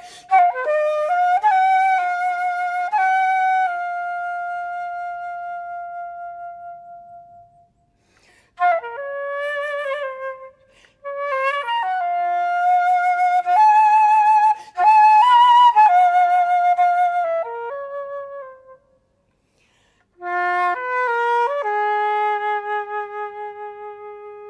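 Solo flute playing unaccompanied, a melody in separate phrases with short breaks between them. Some notes are held long and fade away, and a few are played with vibrato.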